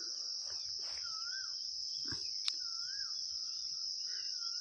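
Steady high-pitched chirring of insects such as crickets, with a short wavering call repeating about every second and a half. A single sharp click about halfway through.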